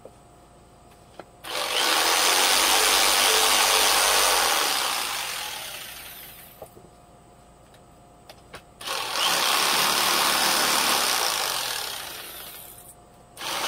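Jigsaw cutting through pine boards in two runs of a few seconds each. Each run starts abruptly and dies away gradually, and a third starts at the very end.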